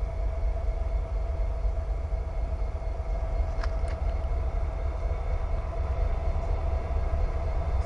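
Diesel freight locomotives, a GE D9-40C leading two BNSF units, running with a steady low rumble and a steady whine.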